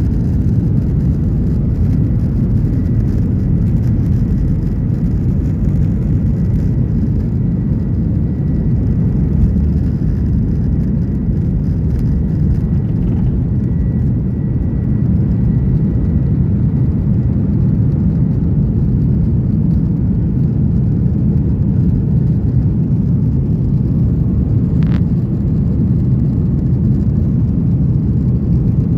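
Steady cabin noise inside a Boeing 737-900ER airliner: a low, even rumble from its CFM56-7B jet engines and the airflow, with a brief click near the end.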